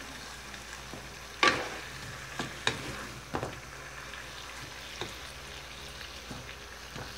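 Sweet potato slices in caramelized sugar and strawberry jam sizzling softly in a nonstick wok while a wooden spatula stirs them. The spatula scrapes and knocks against the pan a few times, loudest about a second and a half in.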